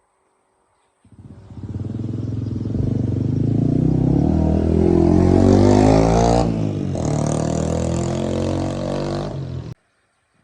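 Restored jeep's engine running and revving, its pitch climbing over several seconds, dipping briefly and then holding steady. It cuts in abruptly about a second in and stops suddenly near the end.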